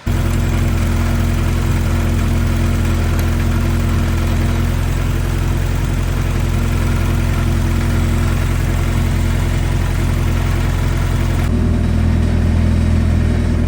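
Mazda Miata four-cylinder engine running at a steady speed on a chassis dyno, an even drone with no rise in pitch; near the end its tone shifts slightly.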